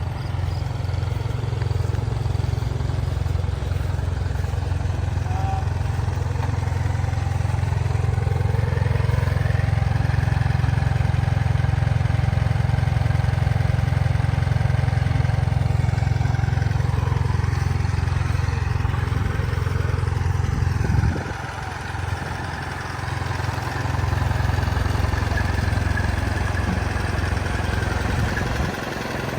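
Engine running steadily with a low, even chugging, briefly dropping away about 21 seconds in.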